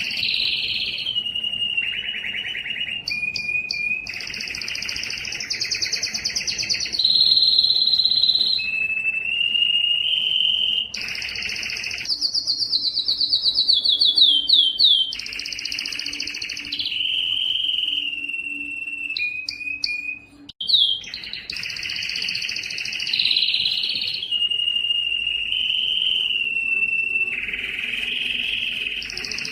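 Canary singing a long, continuous song of rapid trills and rolls that shift in pitch from phrase to phrase. A run of quickly falling notes comes about halfway, and there is a brief pause about two-thirds through.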